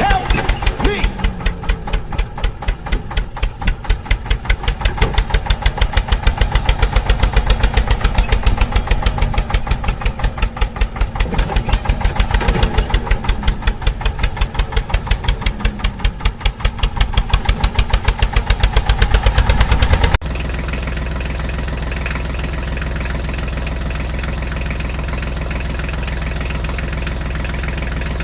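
Tractor engine running with a rapid, even beat. About two-thirds of the way through it cuts off suddenly into a steady engine drone.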